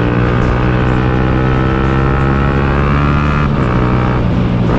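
Motorcycle engine running at speed through an aftermarket exhaust, its note climbing slowly and then dropping about three and a half seconds in, with strong wind buffeting the helmet microphone.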